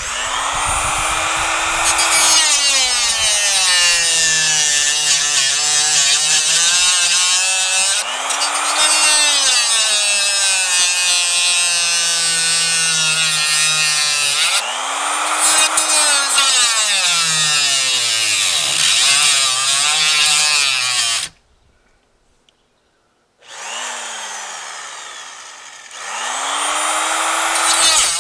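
Power tool motor spinning up and cutting into a circuit board. Its pitch sags each time it bites in, several times over. It cuts off abruptly about three quarters of the way through, then starts up again a couple of seconds later.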